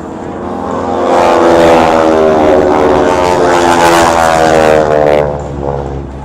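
Propeller airplane passing low and loud during an air-show flypast. Its engine and propeller drone swells about a second in, and the pitch drops as it goes by before fading near the end.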